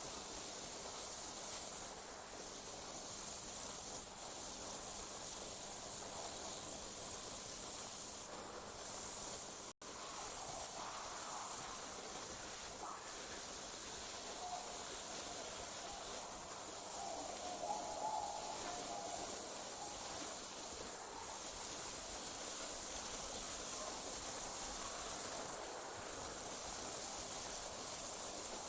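Night insects trilling in a dense, continuous high-pitched chorus that thins briefly every few seconds. The whole sound cuts out for an instant about ten seconds in.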